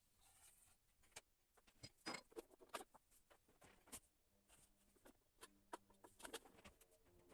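Near silence with faint, scattered small clicks and taps at irregular intervals.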